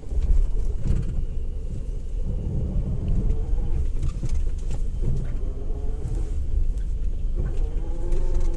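Maruti Suzuki Alto 800 moving at low speed with a steady low rumble and rattling vibration, the sign of a faulty drive axle.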